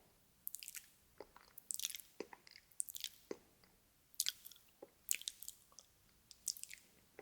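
Close-miked ASMR mouth sounds: wet lip smacks, tongue clicks and nom-nom chewing noises, coming in irregular clusters with short pauses between them.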